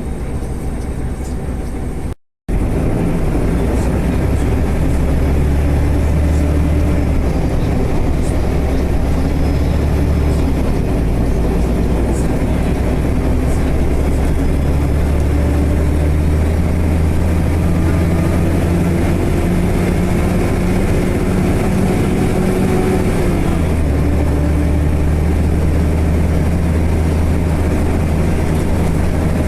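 Heavy vehicle engine running steadily with a low drone, which shifts in pitch about ten seconds in and again near the end. The sound cuts out briefly about two seconds in.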